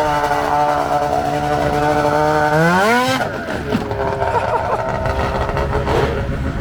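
Vehicle engine running at a steady pitch, then revving up with a sharp rise in pitch about two and a half seconds in, after which a lower, rougher engine rumble carries on.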